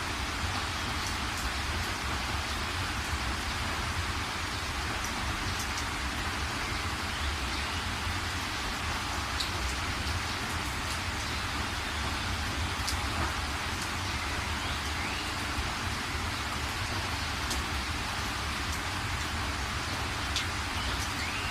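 Steady rain falling, an even hiss with scattered faint drop ticks and a low steady rumble underneath.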